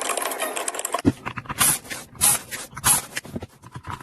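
Tool scraping and rubbing on an induction cooker's circuit board as a small trimmer resistor is worked off it. A dense crackly scrape for about the first second, then three or four short, separate scrapes.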